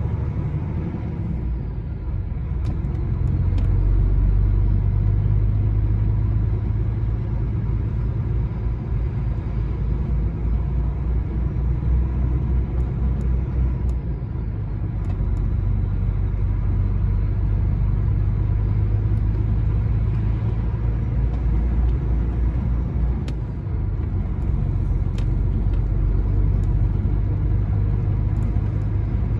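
Lorry's diesel engine and tyre noise droning steadily while driving, rising in level a few seconds in and again about halfway through, with brief dips between.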